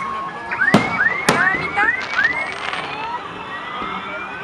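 Aerial fireworks shells bursting: two sharp bangs about half a second apart, close to a second in, over a run of short, rising whistles that die away in the second half.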